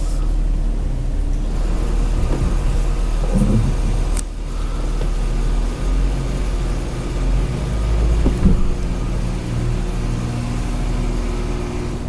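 A car's engine running at low speed as the car rolls slowly into an automatic car wash bay, heard from inside the cabin as a steady low rumble.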